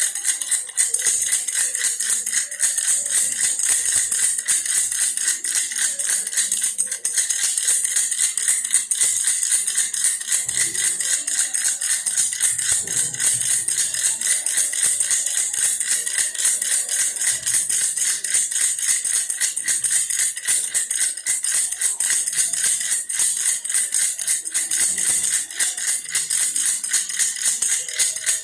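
Baby rattle in the shape of a toy bear, shaken without a break in a fast, steady rattle.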